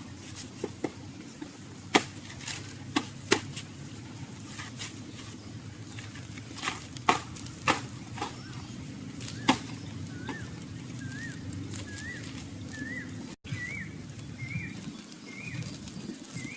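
Several sharp knocks and clicks, then from about ten seconds in a bird calls over and over, each short note rising and falling in pitch, roughly once every 0.7 s.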